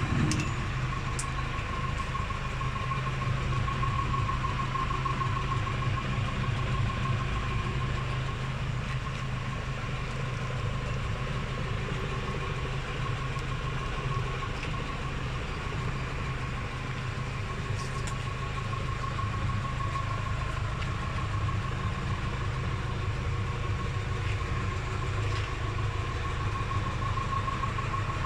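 Tractor engine running steadily while driving a John Deere 575 round baler on the PTO, the baler turning over empty on a test run, with a steady high whine over the drone.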